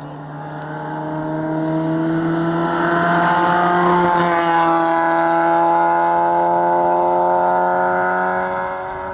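Rally car engine running at a nearly steady pitch: it grows louder over the first three seconds, stays loud, then fades near the end.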